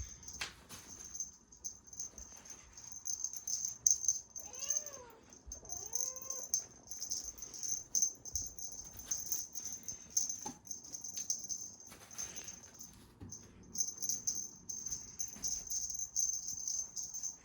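A cat toy being shaken in play makes a steady, high rattle, with a short break about thirteen seconds in. A cat meows twice, two short meows rising and falling in pitch, about five and six seconds in.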